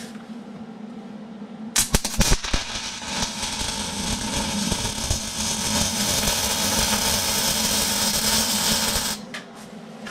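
MIG welder arc welding steel: a few short arc strikes about two seconds in, then a steady crackling sizzle for about seven seconds that stops abruptly near the end. A low steady hum sits underneath throughout.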